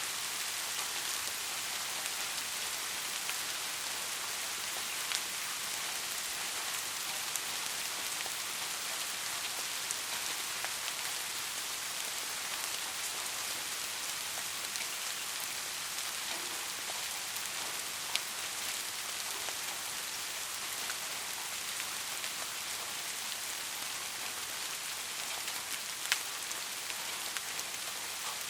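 Steady rain falling, an even hiss with a few sharper single drop ticks about five seconds in, around eighteen seconds in and near the end.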